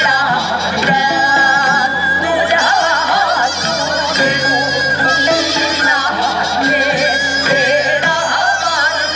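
Korean traditional music ensemble playing a continuous, heavily ornamented melody with wide, wavering vibrato.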